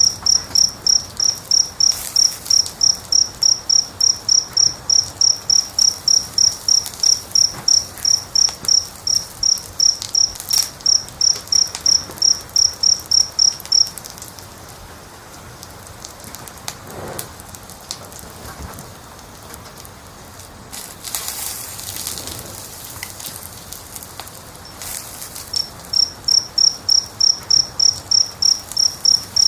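A cricket chirping in a steady rhythm, about three high chirps a second, over a low hiss with scattered pops and crackles of a wood fire. The chirping stops about halfway through and starts again near the end.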